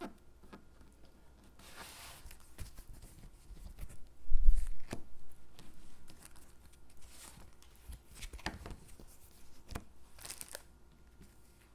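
Stickers being peeled from their backing and pressed onto paper cutouts: scattered soft peeling, rustling and tapping sounds, with a dull thump about four seconds in.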